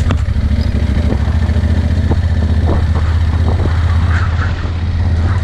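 Steady low drone of a moving road vehicle: engine and road noise at an even speed.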